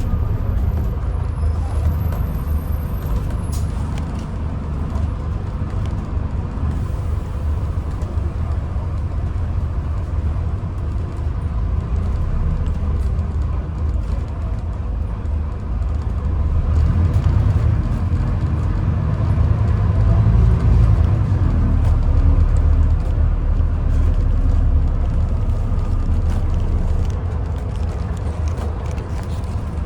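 Scania N250UD double-decker bus heard from inside the cabin while under way: a steady low engine rumble with road noise. About halfway through it grows louder and the engine note rises as the bus pulls away, then it eases off again.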